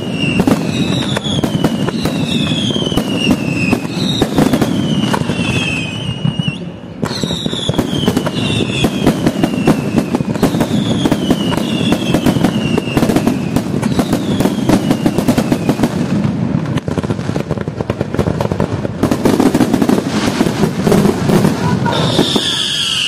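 Aerial fireworks display: a rapid, continuous string of shell bursts and crackling bangs. Short falling whistles come about once a second through the first two-thirds, and a strong burst comes near the end.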